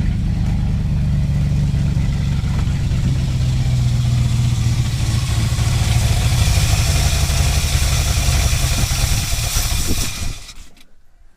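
1984 Dodge Ram pickup's carbureted engine running steadily with its fuel pump disconnected, then dying out and cutting off about ten seconds in. The stall comes even though there is fuel in the carburetor: a running fault that the owner cannot yet pin on fuel or ignition.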